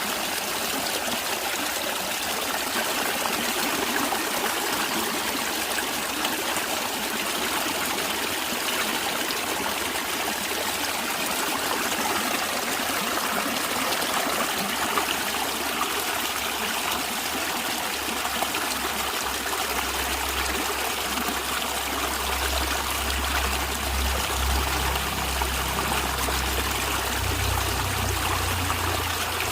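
A stream running and trickling over rocks, a steady rush of water. About two-thirds of the way through, a low rumble joins in underneath.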